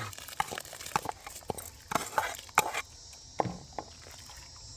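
A quick, irregular run of sharp knocks and clicks for about three seconds, then steady insect chirring.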